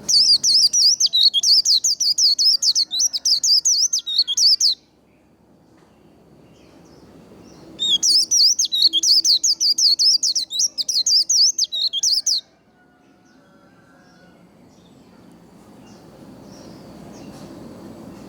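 White-eye singing its rapid, high twittering 'líu' song in two bursts of about four and a half seconds each, with a few seconds' pause between them.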